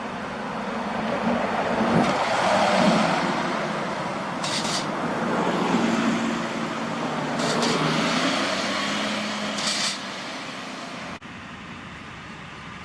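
Large trucks driving past, their diesel engines rising and falling, with three short hisses along the way. The sound drops off abruptly near the end.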